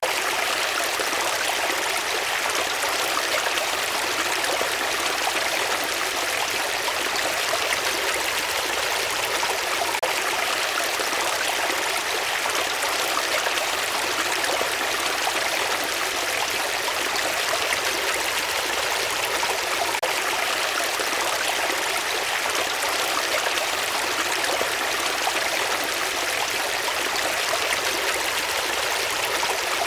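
Flowing stream: a steady, even rush of running water that does not change.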